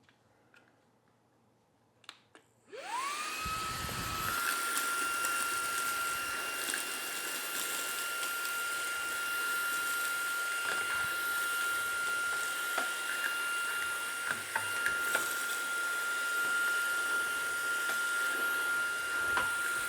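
Shark WV201 WandVac cordless handheld vacuum switched on about two and a half seconds in: its motor spins up in a rising whine, then runs steadily with a high whine. Small ticks and crackles come through as cornflakes are sucked up.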